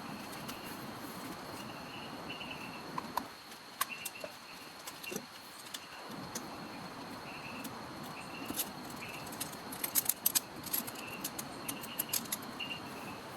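Outdoor ambience: a steady hiss with short, repeated high chirps from birds or insects, and a quick cluster of sharp clicks and taps about ten seconds in.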